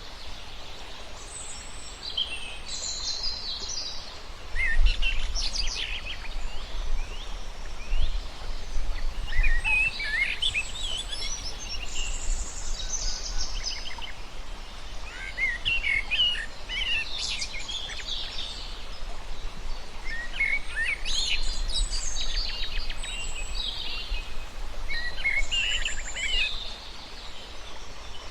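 Birds calling in short chirping, trilling phrases that come again every few seconds, over a steady outdoor hiss and a low rumble.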